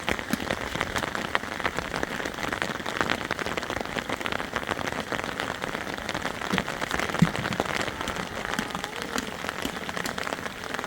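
Heavy rain falling: a steady hiss dense with the ticks of individual drops striking a surface, with one sharper tap about seven seconds in.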